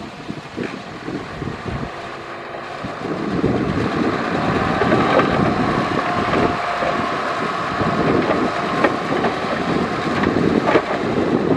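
Heavy earthmoving machinery running at work, the diesel engine noise growing louder a few seconds in, with a few sharp metallic clanks.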